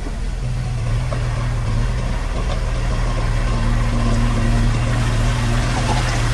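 Diesel engine of heavy construction machinery running steadily with a deep, even hum and some mechanical clatter, a higher engine tone joining about halfway through.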